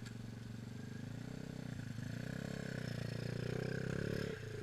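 Dirt bike engine running at low revs, a steady pulsing note that gets a little louder after about a second and drops back briefly near the end.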